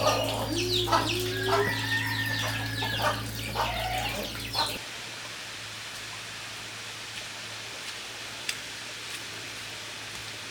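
Domestic chickens clucking in short pitched calls over a steady low hum. About five seconds in, this cuts off suddenly to a quieter steady hiss with a few faint ticks.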